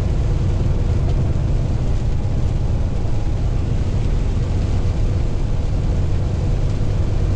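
Steady low rumble of a semi truck on the highway, engine and road noise heard from inside the cab.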